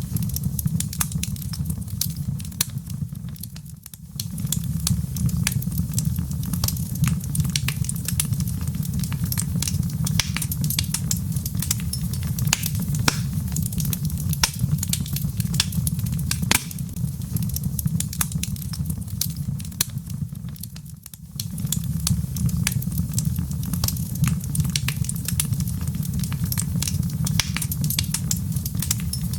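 Log fire crackling: dense sharp pops and snaps over a steady low rumble, which dips briefly twice, about 4 seconds in and again about 21 seconds in.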